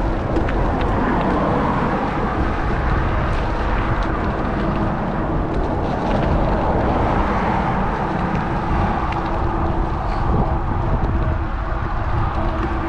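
Wind rushing over the action camera's microphone and tyre and road noise from a moving electric bike, with a steady low hum underneath and a few faint clicks.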